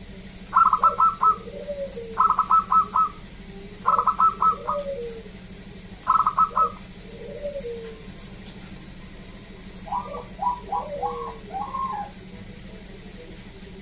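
Zebra doves (local perkutut) cooing: four quick phrases of staccato notes in the first seven seconds, then a lower, wavering phrase about ten seconds in, with softer low coos between the phrases.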